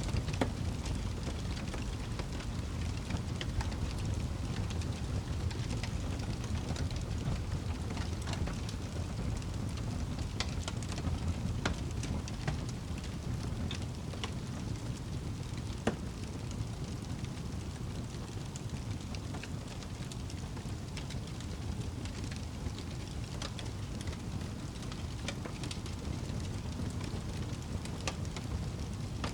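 Wood fire burning in a fireplace: a steady low rumble of flames with scattered crackles and pops, one sharper pop about halfway through.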